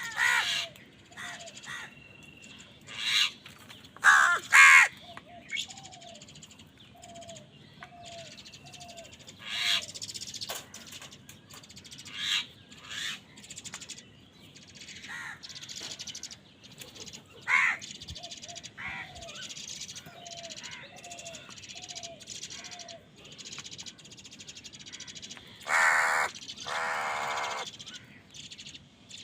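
Crows cawing loudly at irregular intervals, including a long drawn-out harsh call near the end. Between the caws a smaller bird repeats short chirps.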